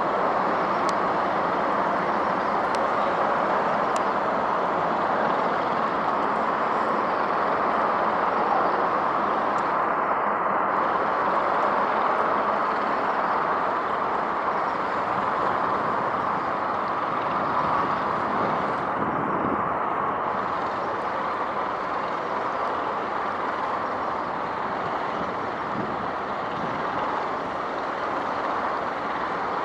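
Steady rush of road traffic, an even wash of noise with no single vehicle standing out.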